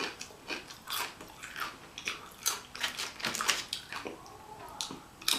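Close-miked chewing of a mouthful from a burrito bowl: wet mouth clicks and smacks at an uneven pace.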